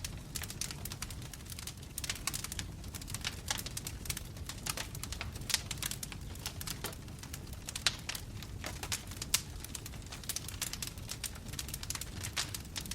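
Burning logs crackling and popping in a fireplace: a dense, irregular run of sharp crackles with a few louder pops, over a low steady rumble.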